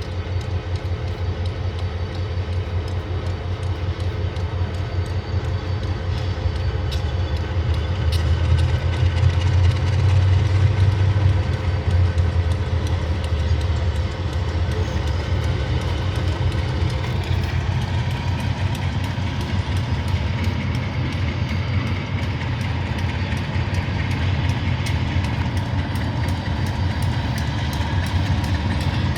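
Diesel-electric locomotive hauling a passenger train in at slow speed, its engine running with a steady low drone. It grows loudest about ten seconds in as it comes closest.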